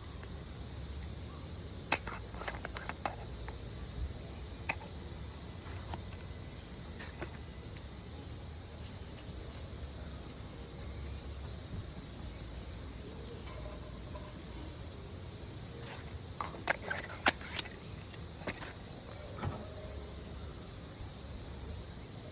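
Insects chirring steadily in a high, even band, with scattered sharp clicks and clatters: a few about two seconds in and a cluster near the end.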